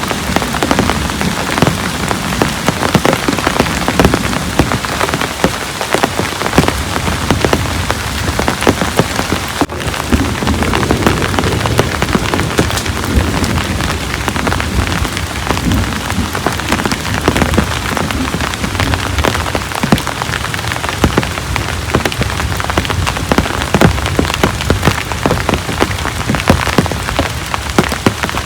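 Heavy rain falling steadily, with a dense stream of sharp drop hits landing close by.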